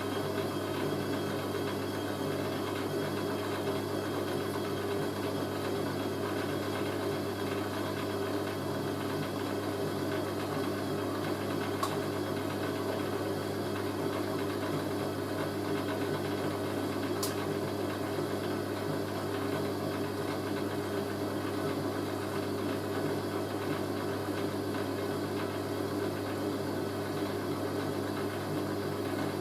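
Hoover A3060 washing machine's drain pump running steadily, pumping out the wash water with a constant hum and a grinding note.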